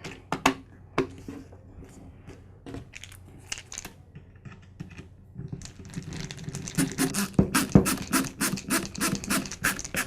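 Clicks and taps from the plastic housing side of a DeWalt D28402 angle grinder being fitted back on, a few separate clicks at first, then a quick run of clicks and knocks in the second half.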